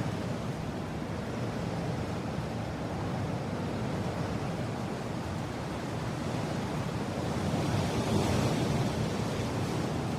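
Mountain wind blowing in a steady rush, swelling into a stronger gust about eight seconds in.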